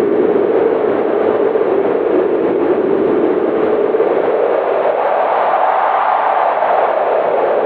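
Strong winter wind howling steadily, its pitch rising in a gust past the middle and sinking back near the end.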